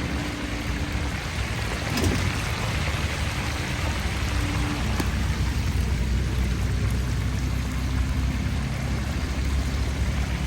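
Hot oil sizzling steadily in a deep fryer as food fries, a dense crackling hiss with a few sharper pops.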